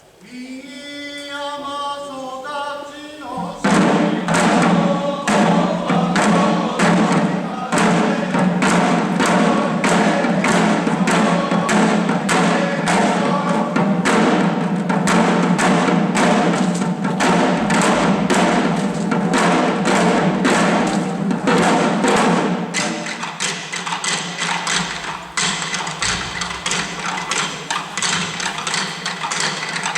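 Shishi-odori deer-dance music: a sung voice line holds and slides in pitch, then from about four seconds in the dancers' drums beat a steady rhythm of roughly two strokes a second under sustained chanting voices. The drumming grows lighter about 23 seconds in.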